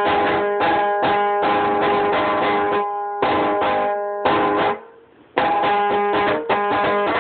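Rababa, a plucked lyre, being played in a quick run of plucked notes on a few repeating pitches, with a brief pause about five seconds in before the playing picks up again.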